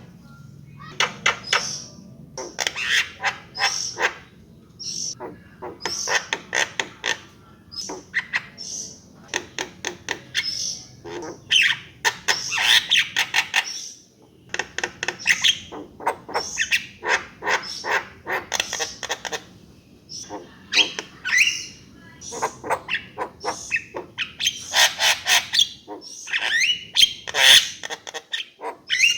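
Javan myna (jalak kebo) singing and calling in a fast, unbroken run of harsh squawks, clicks and whistled notes, with a short pause about halfway.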